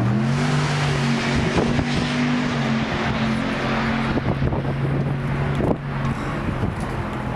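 A car engine held at raised revs: it climbs right at the start, holds a steady note for about six seconds, then drops off, with wind on the microphone.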